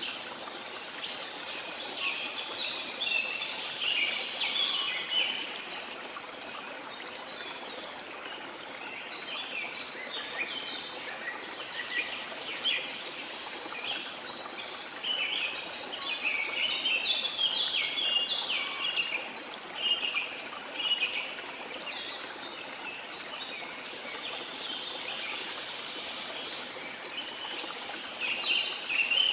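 Many birds chirping and calling in quick overlapping bursts over the steady rush of a waterfall. The birdsong thins out for a while in the middle, then grows busy again and again near the end.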